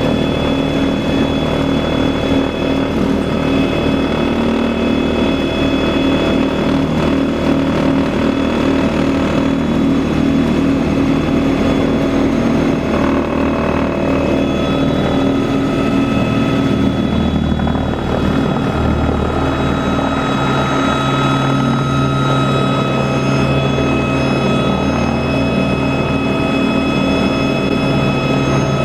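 Tour helicopter's engine and rotor running steadily. Partway through, the tone shifts and a deeper hum comes in.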